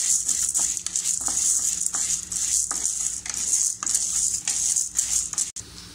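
Chana dal, urad dal and dried red chillies sizzling in hot oil in a metal kadai, with a steady hiss. A spatula stirs them, scraping and clicking against the pan at irregular moments. The sound breaks off briefly near the end.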